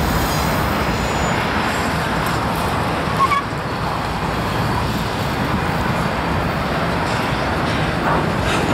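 Freight train of autorack cars rolling past close by: a steady rumble and rattle of steel wheels on the rails, with a brief high squeal about three seconds in.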